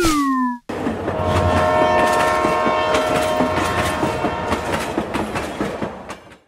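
A falling whistle-like tone ends, then after a brief break a train sound starts: a fast rhythmic clatter with a steady horn tone held over it, fading out near the end.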